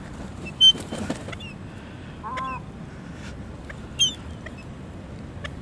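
Seagulls calling: a few short, separate squawks and cries, the loudest under a second in.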